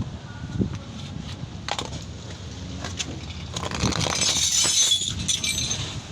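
Metal tools and parts clinking and scraping while a clutch booster is taken apart: a few separate sharp clicks, then a louder stretch of rattling and scraping about four seconds in.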